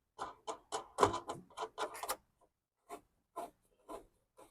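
A screw being driven in with a hand tool: a quick run of short clicks and scrapes, then a few sparser ones over the last couple of seconds.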